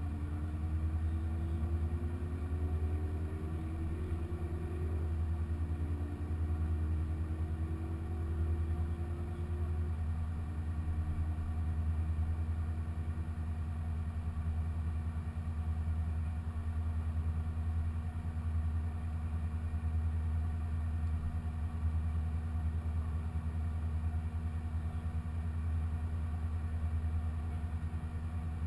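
2015 Corvette Z06's supercharged 6.2-litre V8 running at a steady, unchanging pace as a deep, even rumble. A faint tone rises slowly several times in the first ten seconds.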